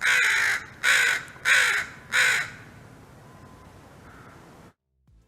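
Crow cawing four times in quick succession, each caw about half a second long, followed by faint background sound.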